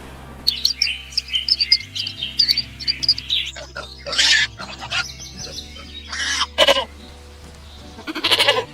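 Animal calls over steady background music: a run of quick, high chirps in the first few seconds, then three louder, harsher calls, each about half a second long.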